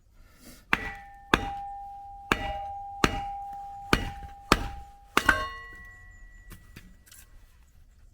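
Firewood being split: about seven heavy strikes of a splitting tool on wood, each with a short ringing tone. The strikes come roughly every half second to a second, the last one doubled, followed by a few light knocks.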